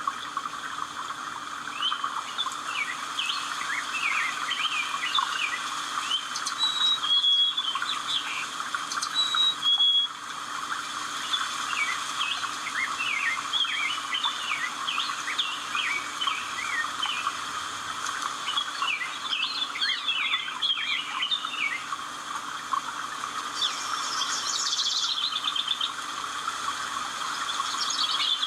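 Several birds chirping and calling in quick, overlapping short notes over a steady background hiss, with two brief held whistles near the start.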